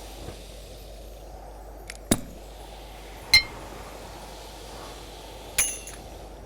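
Three sharp clinks, a second or two apart, each leaving a brief ringing tone, with the last ringing longest; a steady low hum and noise lies underneath.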